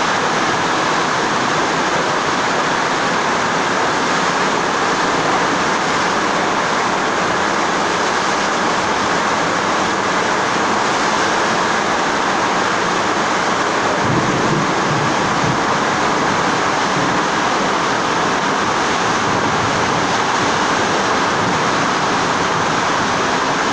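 Floodwater rushing steadily in a loud, unbroken roar of water. A brief low rumble sounds about fourteen seconds in.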